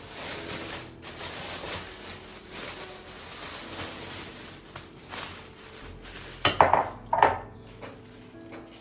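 Kitchen work noise: a hissing, rustling rush that rises and falls for about six seconds. Then come two sharp, ringing clatters of dishware, a little under a second apart.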